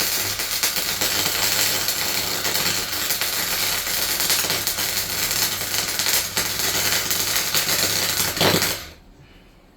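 Electric welder laying a continuous bead on the van's floor panel: a steady dense crackle over a low electrical hum, which stops abruptly about nine seconds in.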